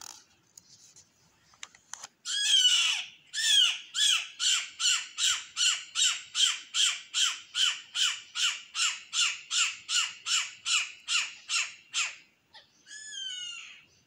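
A bird calling loudly, repeating the same call about two and a half times a second for some ten seconds, each note sliding down in pitch. Near the end comes a shorter call with a few falling notes.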